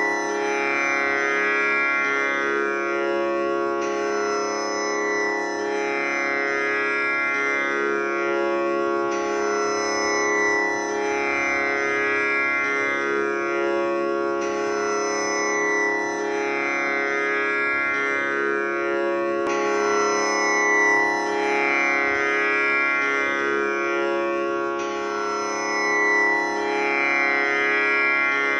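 Tanpura drone tuned to C#, its strings plucked in a repeating cycle that starts afresh about every five seconds, sustaining a continuous drone with rich overtones.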